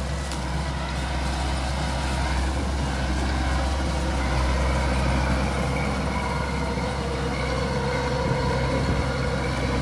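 A large engine running steadily with a low, even hum and no change in speed.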